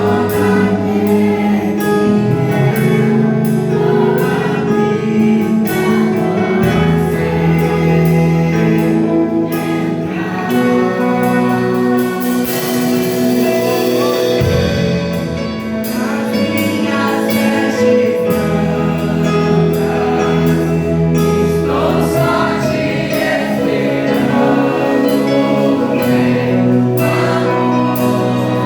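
Congregational gospel worship music: voices singing together over a band with steady bass and a regular beat.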